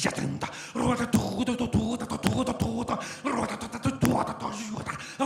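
A voice performing sound poetry: non-word vocal sounds, short pitched syllables interrupted by sharp mouth clicks and pops.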